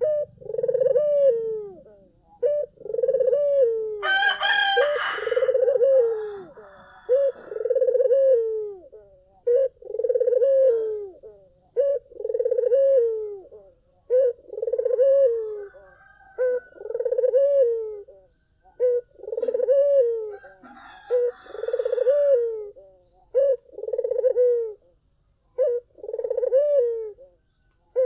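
Barbary dove (puter) cooing over and over, a low rolling coo repeated about every two seconds. About four seconds in, a louder, higher-pitched call cuts in briefly over the cooing.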